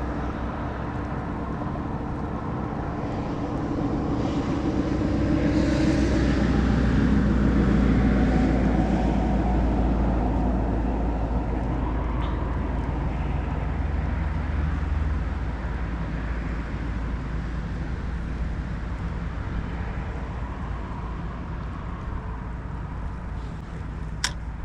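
A motor vehicle's engine passes by with a steady low drone. It grows louder about four seconds in, peaks around eight seconds and slowly fades. A single sharp click comes near the end.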